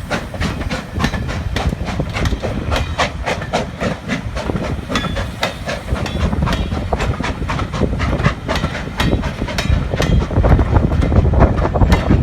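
Steam train rolling past, its wheels clicking and clattering over the rail joints over a steady low rumble. The rumble grows louder near the end.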